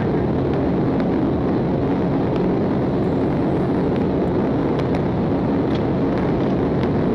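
Steady engine, tyre and wind noise of a police car driving at very high speed in a pursuit, heard from inside the car.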